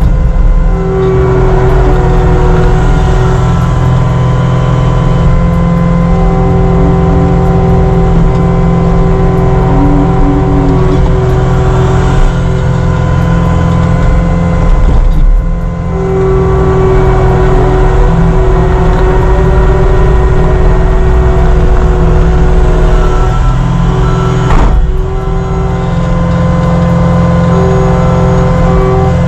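Caterpillar 259D3 compact track loader working in snow: its diesel engine running steadily at working speed with a held whine from the machine that comes and goes, and brief drops in sound about 15 and 25 seconds in.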